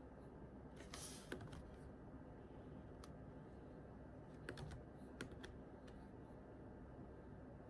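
A few scattered keystrokes on a computer keyboard: a short cluster about a second in, a single key near three seconds, then several more a little later, over a faint steady room hum.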